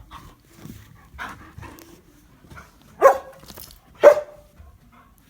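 English Shepherd puppies barking: two sharp barks about a second apart, after a few softer yips and noises.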